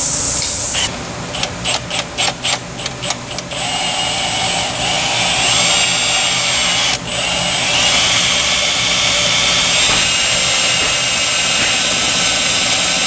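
Drill running against a dowel pin in an engine block: a run of short on-off trigger blips about a second in, then a steady whine that stops briefly about seven seconds in. The dull bit spins without cutting.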